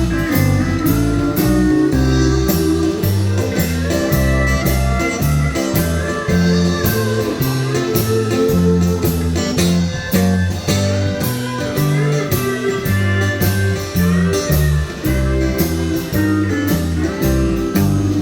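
Live country band playing an instrumental break: a lead guitar carries the melody over bass and a steady drum beat, with no vocals.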